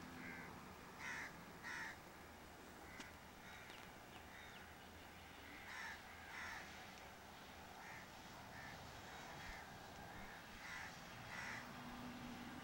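Faint bird calls: short calls repeated at irregular intervals, the loudest coming in pairs about half a second apart, over a low steady hiss.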